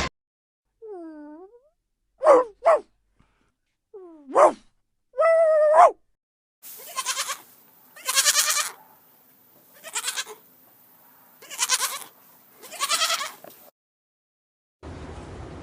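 Goats bleating: a few short separate bleats, then five longer, wavering bleats about one and a half seconds apart.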